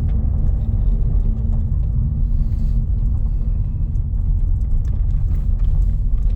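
Car driving along a road: a steady low rumble of engine and road noise, with a few light clicks.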